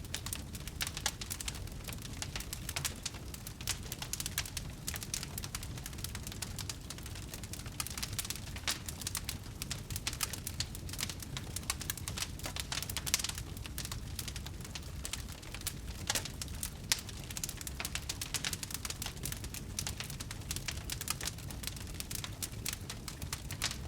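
Burning firewood crackling steadily: many small, irregular sharp pops and snaps over a low steady rumble of the flames.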